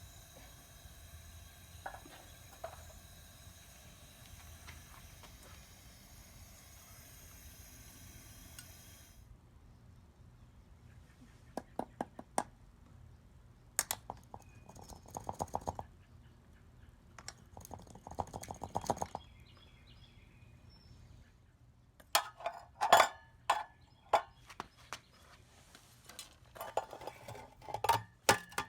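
A faint, steady propane furnace burner hiss that cuts off suddenly about nine seconds in, followed by scattered metal clinks and knocks that grow louder near the end, as tongs and crucible are handled.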